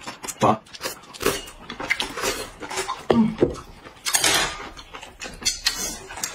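Close-up eating sounds: chewing and slurping with many short clicks of utensils against dishes, and a few brief vocal noises in between.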